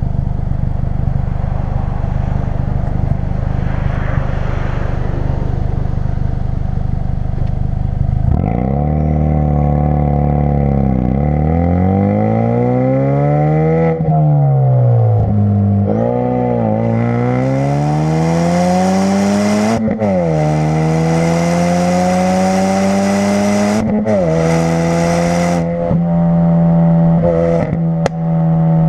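2016 Ford Focus RS's turbocharged 2.3-litre four-cylinder running through a custom-fabricated exhaust. It runs steadily at first. About eight seconds in, the note starts to climb under hard acceleration, drops sharply at each gear change and climbs again, and near the end it holds a steady pitch.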